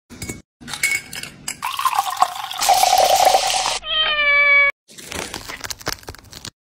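Liquid pouring into a glass for about two seconds, then a single cat meow lasting under a second, followed by light clicks and crackles of handling.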